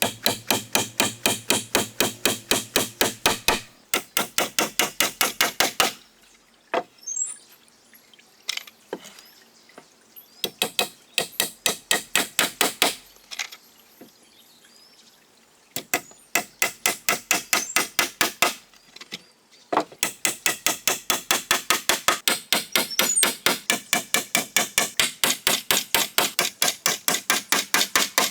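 Rapid, evenly paced hammer blows, about five a second, each with a slight ring. They come in long runs broken by a few short pauses.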